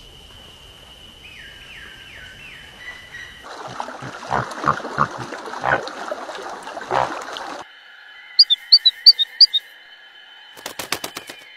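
Short animal and bird sound clips cut one after another: a few faint falling chirps, then a stretch of loud, short, harsh calls, then six quick high bird chirps, ending in a fast run of clicks.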